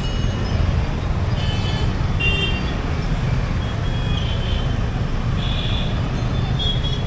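Road traffic noise with a steady low rumble, and several short high-pitched horn toots scattered through it.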